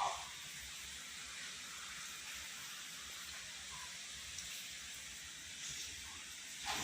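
Steady sizzling hiss of chicken gravy cooking in a pan, with a brief soft sound at the start and another near the end.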